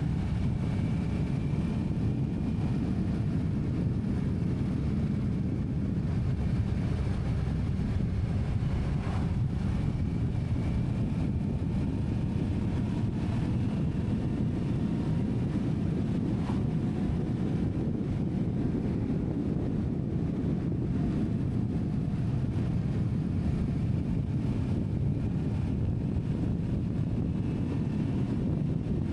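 Steady low rumble of a vehicle under way, with wind buffeting the microphone.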